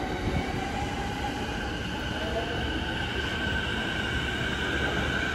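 JR Keihin-Tohoku Line electric commuter train running past the platform: wheels rumbling on the rails under a steady high motor whine that rises slightly near the end.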